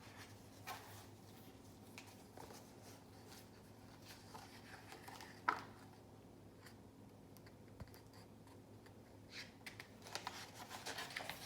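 Faint handling noises: scattered small clicks and rustles, with one sharper click about five and a half seconds in and a quick cluster of clicks near the end, over a low steady hum.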